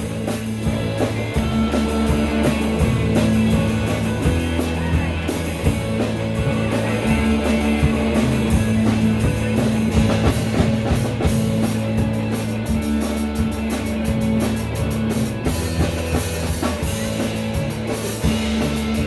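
Live rock band playing an instrumental break: a guitar solo over a driving drum kit and the rest of the band.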